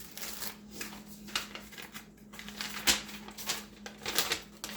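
Paper and plastic packaging being handled: irregular rustling and crinkling strokes, with a sharper one about three seconds in, over a faint steady hum.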